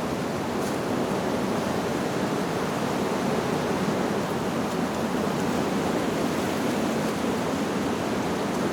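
Steady rushing of wind through leaves, an even, unbroken noise without chimes sounding.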